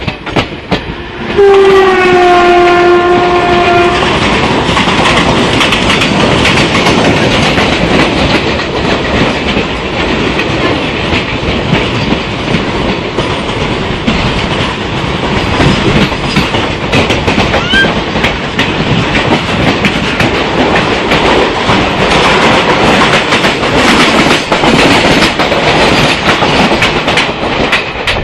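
Indian Railways locomotive horn blows once for about two and a half seconds, then the Mumbai–Amritsar express's coaches run past close by with a loud steady rumble and the clickety-clack of wheels over rail joints.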